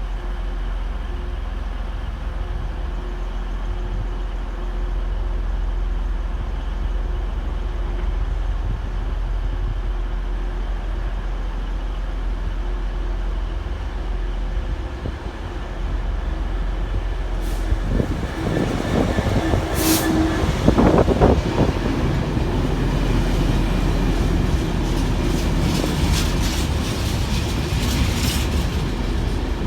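Diesel-hauled freight train, a steady low rumble at first. From about 18 seconds in it grows louder with wheel and wagon noise, sharp metallic clanks and rattling as the train runs past.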